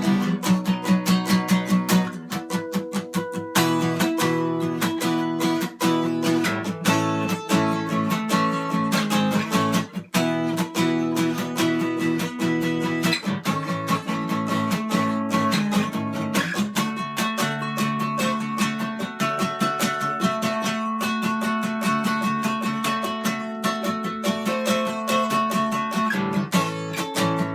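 Acoustic guitar music, strummed chords with plucked notes and regular chord changes.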